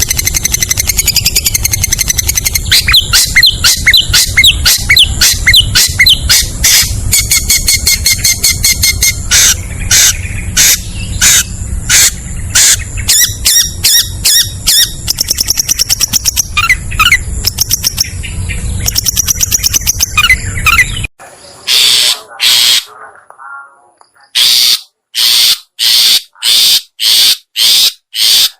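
Lure recording of long-tailed shrike (cendet) calls, played to draw the bird in for trapping. Rapid chattering notes run over a low hum. About three-quarters of the way through, the hum cuts out, and after a short gap a steady series of short sharp calls follows, nearly two a second.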